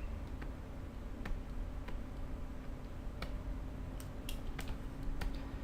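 Scattered single clicks of computer input, about eight at irregular spacing, over a low steady hum.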